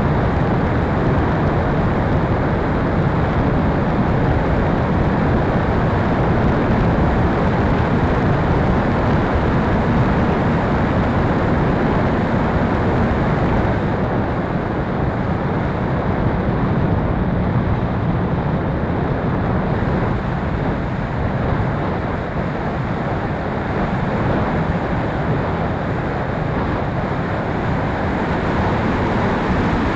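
Steady rushing wind noise buffeting the microphone, heaviest in the low end, with no motor whine audible; it eases slightly about halfway through.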